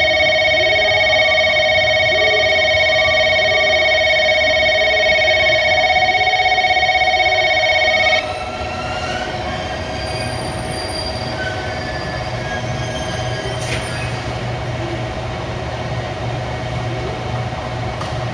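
A platform's electronic train-approach warning tone rings steadily, then cuts off suddenly about eight seconds in. A JR Kyushu 787 series electric express then rolls slowly into the platform with a low hum.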